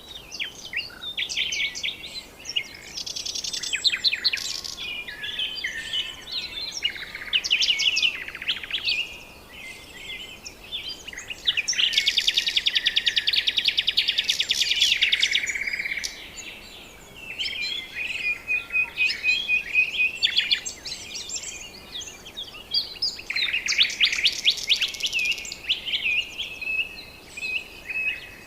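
Several birds calling and singing at once: chirps, whistled notes and quick rising and falling calls, with a loud rapid trill lasting about three seconds near the middle.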